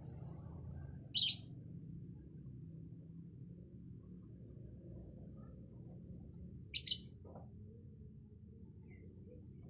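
Lovebird giving two short, shrill calls, about a second in and again about six seconds later, with faint scattered chirps between them over a low steady hum.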